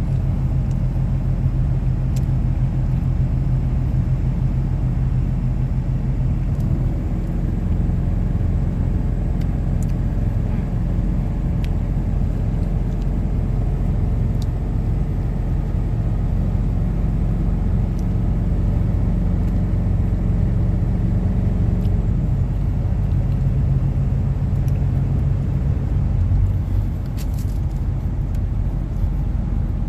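Steady road and engine rumble inside a moving car's cabin, its low hum shifting in pitch a few times as the car changes speed.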